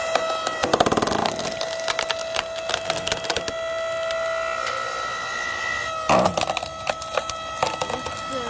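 Firewood splitter forcing a log apart: the wood cracks and splinters in two bursts, about a second in and about six seconds in, over a steady whine from the machine.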